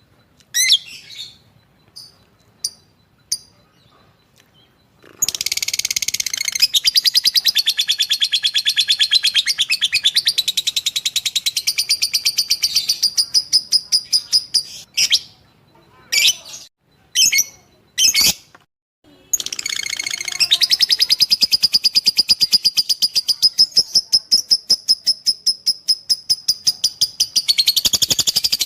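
Lovebird chattering: a few short chirps, then a long, very rapid run of high repeated notes for about seven seconds. It breaks into a handful of short calls, then the rapid run starts again and lasts about nine seconds.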